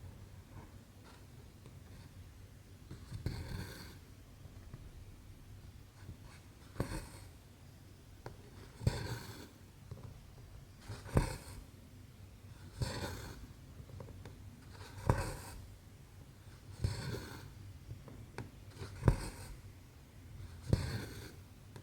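Needle and thread being worked through 11-count cross-stitch fabric. A sharp tick or a longer swish comes about every two seconds as each stitch is pushed and pulled through.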